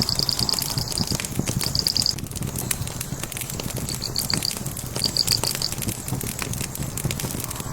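Burning logs crackling with a stream of small pops, over a low steady rumble. A rapid, high chirping trill comes in short runs through it, in the first two seconds and again around four and five seconds in.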